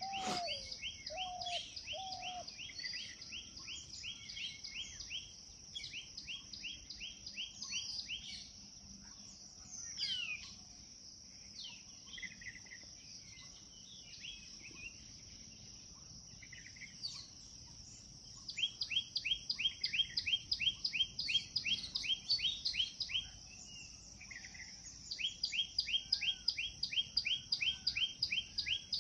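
Parrot calling in fast runs of repeated chirps, about seven a second, with scattered single calls in between. There is a long burst near the start and two more in the second half, over a steady high-pitched whine.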